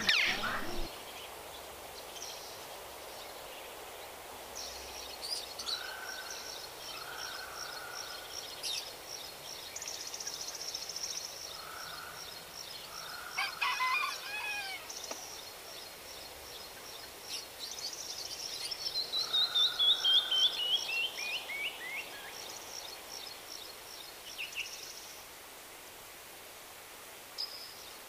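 Birds singing and calling: a fast, high trill of repeated notes runs through most of it, with scattered shorter calls, and about two-thirds of the way in a loud series of notes steps down in pitch.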